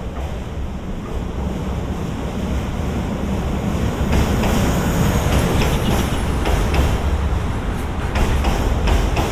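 A DE10 diesel-hydraulic locomotive passing with its engine running, followed by Hoki 10000 coal hopper wagons rolling by. The low rumble grows louder, and from about four seconds in the wagons' wheels add a run of sharp clicks and knocks on the rails.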